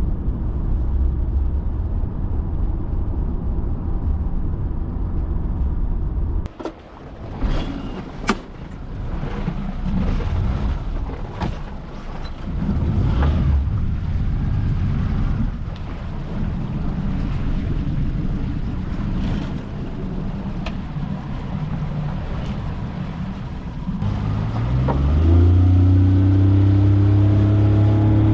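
Steady low road and wind rumble of a vehicle under way, broken by a few sharp clicks and knocks. Near the end a pitched, motor-like hum rises and then holds steady, louder than the rumble.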